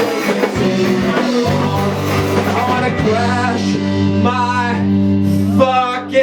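A rock band playing live: electric guitars, bass and drums.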